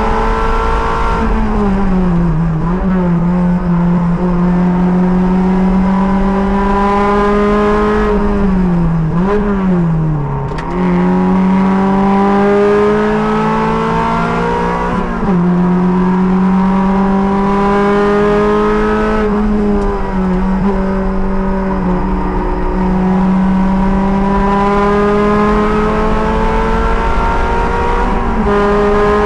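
Race car engine under load, heard from the driver's helmet. Its note climbs slowly and then drops sharply at each gear change, with a dip and a couple of quick blips about ten seconds in.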